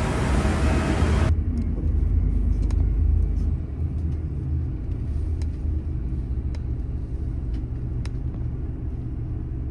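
A broad rushing noise cuts off abruptly about a second in, leaving the steady low rumble of an idling airport apron bus engine heard from inside the bus, with a few faint ticks.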